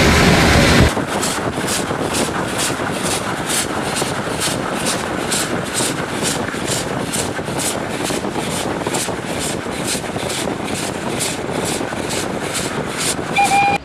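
CFR 231.065 Pacific steam locomotive working, its exhaust chuffing evenly about twice a second. A louder low rumble cuts off about a second in, and a short whistle blast starts just before the end.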